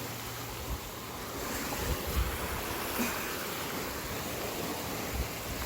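Gentle surf washing along the beach, with wind buffeting the microphone in uneven low gusts.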